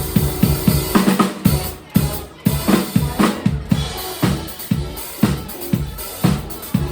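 Drum kit playing a busy pattern of bass drum and snare hits, about four strokes a second, in a live band's set.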